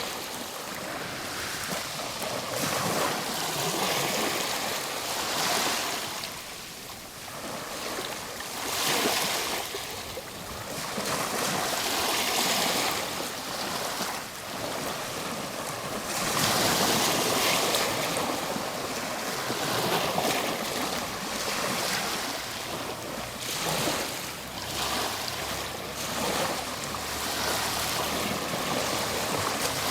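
Ocean surf: a continuous wash of waves, swelling and falling back every few seconds.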